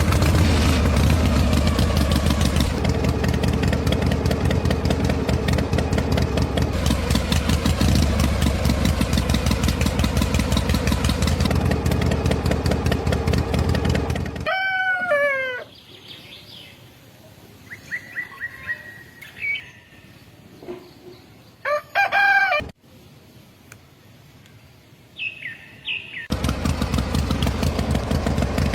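A small engine runs steadily, then stops suddenly about halfway through. A rooster crows, followed by scattered bird chirps and a second short crow. The engine sound comes back near the end.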